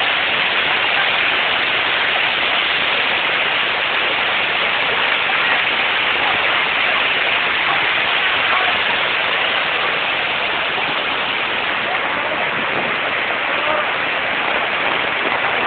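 Steady, unbroken rush of muddy floodwater pouring down a street like a waterfall, mixed with heavy rain.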